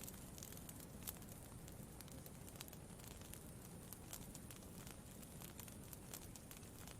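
Campfire crackling faintly: irregular small pops and snaps, several a second, over a steady low rumble.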